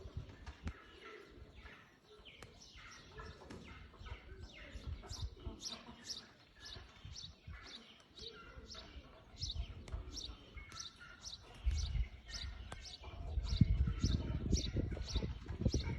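Small birds chirping, short high chirps repeated about three times a second. A low rumbling noise swells in from about ten seconds in and is loudest near the end.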